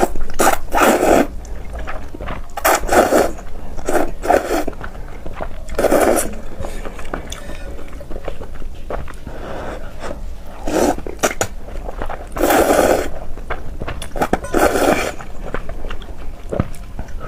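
Close-miked eating of a bowl of river-snail rice noodles in soup: noodles and broth slurped and chewed in short bursts every second or two, with small wet clicks between them.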